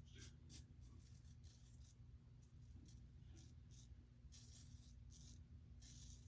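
Faint, short scratchy strokes of a double-edge safety razor scraping through stubble, about two strokes a second with irregular gaps.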